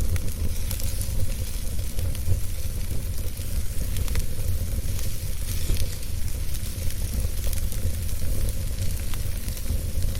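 Wood fire in a fireplace crackling, with frequent small pops and snaps over a steady low rumble.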